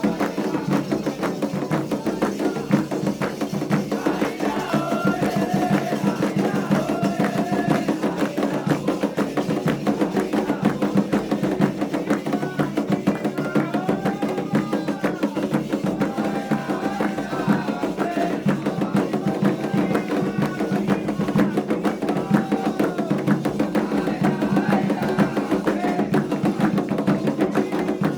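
Candomblé ritual music: hand drums and a struck percussion pattern played fast and steadily, with voices singing a melody over them.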